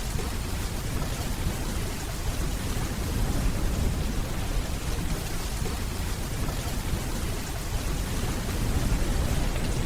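Steady rainfall with a low rumble of distant thunder underneath.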